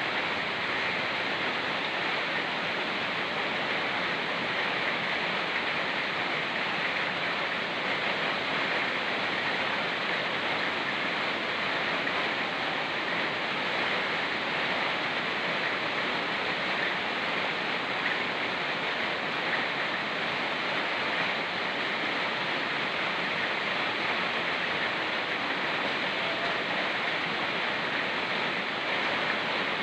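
Fast-flowing mountain river rushing over rocks, mixed with falling rain, as one steady, unbroken wash of water noise.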